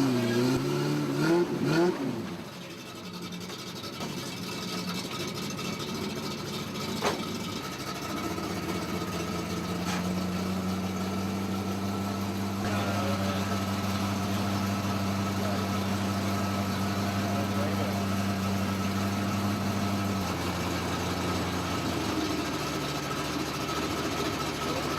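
Off-road competition truck's engine running at a steady speed, a constant drone that grows stronger about eight seconds in and eases slightly near the end.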